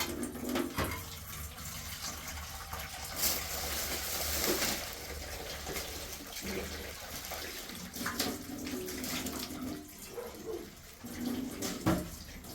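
Water running and splashing, with occasional clinks and knocks, typical of washing up at a tap.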